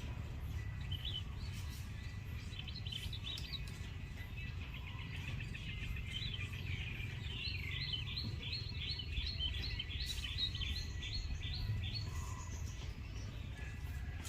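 Small birds chirping, with a quick run of about ten repeated notes in the second half, over a steady low rumble.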